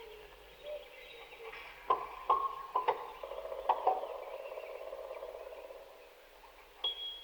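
Experimental concert music for prepared piano and tape: a quick cluster of sharp struck notes about two seconds in, each ringing on, then a held tone that fades, and a short high tone near the end.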